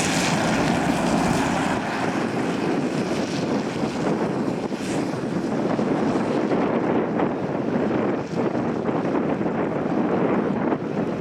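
Heavy rain falling steadily, with wind buffeting the microphone.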